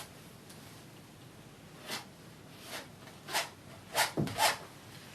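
A painting knife scraping oil paint onto canvas in about six short strokes. They start about two seconds in, and the loudest three come close together near the end.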